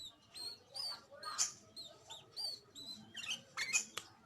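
Sooty-headed bulbul (kutilang) calling in a run of short, clear whistled chirps that rise and fall in pitch, with a few sharp clicks among them.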